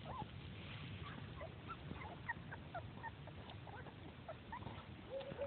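Three-week-old Welsh terrier puppies squeaking and whimpering faintly: many short high squeaks, a few a second, at irregular intervals.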